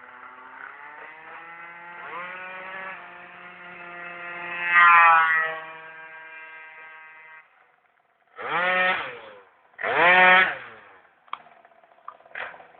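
Piaggio NRG MC3 two-stroke scooter engine with a Stage6 exhaust, running and revved: one long rev, then two short sharp revs about a second and a half apart, and a few quick blips of the throttle near the end.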